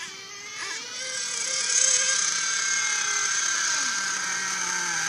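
Ofna RC buggy's oversize engine running with a high whine. It revs up about a second in, holds high briefly, then falls back over a couple of seconds to a steady lower speed.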